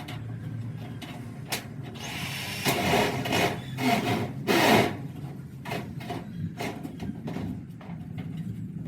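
A tool scraping or rubbing on a workpiece in several loud strokes over a couple of seconds, with light clicks and knocks around them and a steady low hum underneath.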